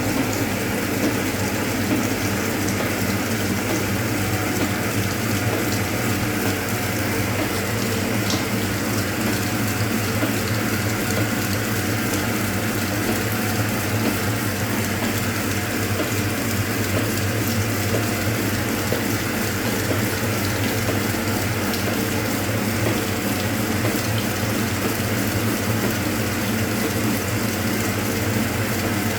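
Hoover Automatic 820 washing machine spinning steadily, now running balanced, with its drain pump pushing out water in a steady rush over a low motor hum.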